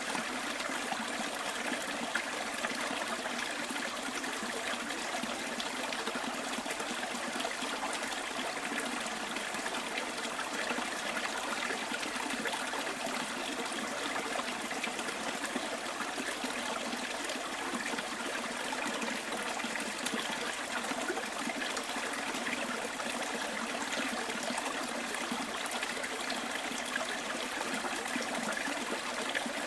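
Small bush stream trickling and babbling steadily, an even wash of running water.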